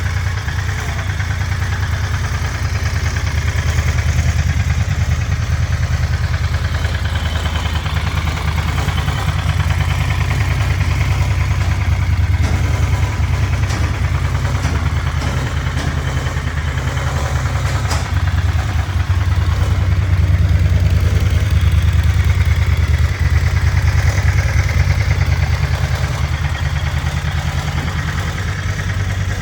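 Moto Guzzi motorcycle engine idling steadily, with a slight rise in level about two-thirds of the way through.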